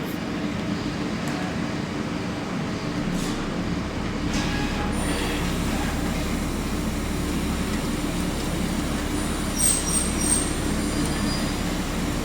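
Mazak QT200 CNC turning lathe running a cut, with a steady machine hum. A deeper rumble joins about three and a half seconds in. Short high-pitched squeals come about ten seconds in.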